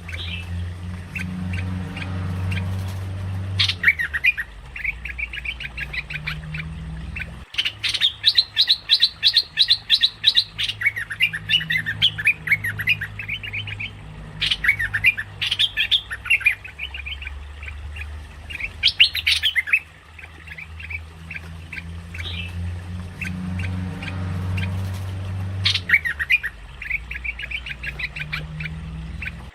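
Merbah lekir bulbul calling: bouts of rapid, chattering notes repeated with short pauses between them, over a steady low hum.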